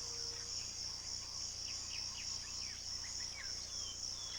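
Steady high-pitched insect chorus of a tropical wetland, with many short falling chirps scattered through it.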